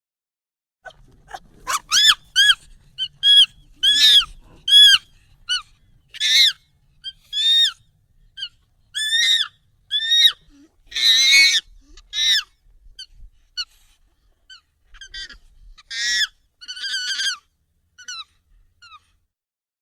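Monkey calls, sped up and pitched up: a long run of short, high squeals, each arching up and down in pitch, coming in irregular bursts with brief gaps.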